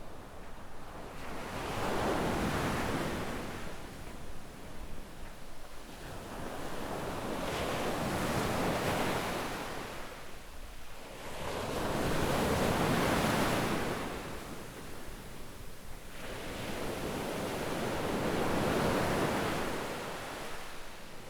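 Small waves breaking and washing up a sandy beach. The surf swells and fades four times, one wave every five or six seconds.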